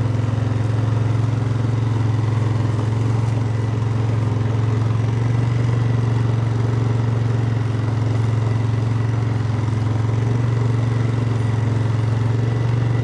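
An engine running steadily at an unchanging speed, a loud low drone with no revving.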